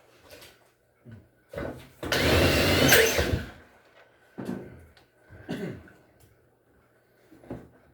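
A small power tool runs for about a second and a half, with a rising whine, amid scattered knocks and clunks of work on the washer.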